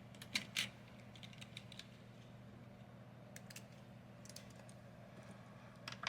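Plastic savings chips clicking against each other and the table as they are counted out and set down by hand: a couple of sharp clicks about half a second in, light ticks scattered through the middle, and a louder clatter at the end.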